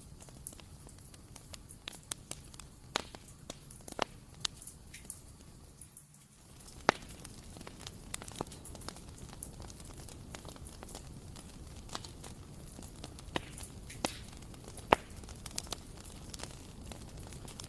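Bonfire burning: irregular sharp crackles and pops from the burning wood over a steady low rumble of the flames. There is a short lull about six seconds in, and the loudest pops come around seven and fifteen seconds in.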